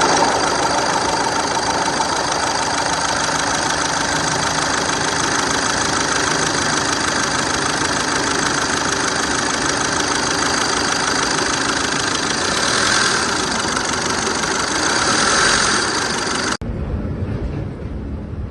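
Skoda Octavia engine idling steadily, loud and close. About sixteen and a half seconds in it cuts off abruptly to a quieter low rumble.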